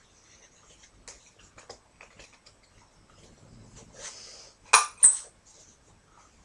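Hole punch punching a hole in card: two sharp metallic clacks in quick succession about three quarters of the way in, after quieter handling clicks and rustling of the card.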